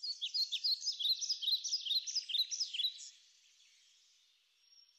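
Birdsong: a quick run of high chirping notes, several overlapping, for about three seconds, thinning to a few faint high notes.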